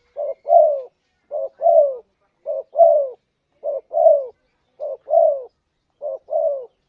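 Spotted dove cooing its two-note 'kuk dua' call: a short note followed by a longer falling note. The phrase repeats about once a second, six times, then stops near the end.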